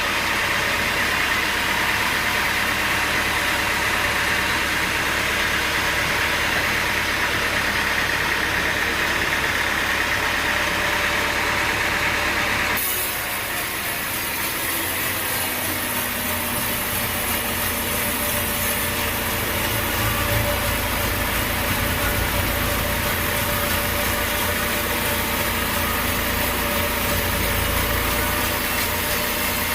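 Sawmill machinery running steadily. The sound shifts abruptly about halfway through, from a brighter whirring to a lower, deeper running.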